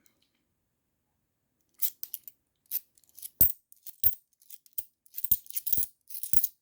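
50p coins clinking and being set down one after another while they are sorted by hand, starting about two seconds in. Among the light clinks are a few heavier knocks.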